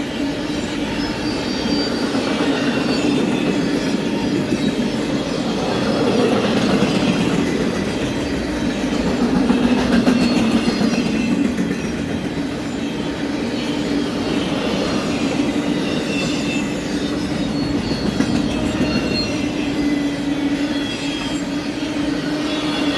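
A BNSF double-stack container freight train rolling past, a steady loud rumble of steel wheels on rail with short, scattered high-pitched wheel squeals.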